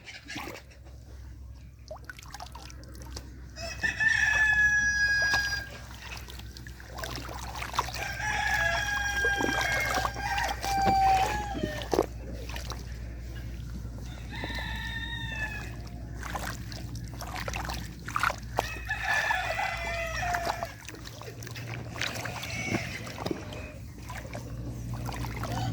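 Roosters crowing, several long drawn-out crows one after another, over a steady low rumble.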